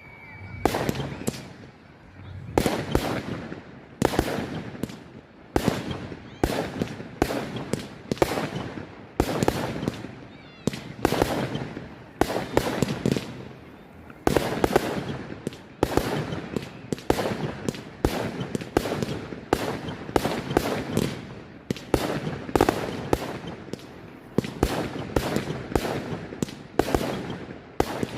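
Aerial fireworks display: shell bursts go off in rapid succession, roughly one or two a second, each ringing out briefly after the bang.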